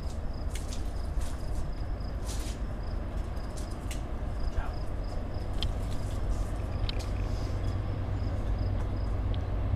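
Low, steady rumble of a distant train approaching, growing a little louder near the end. A high insect chirp repeats evenly throughout.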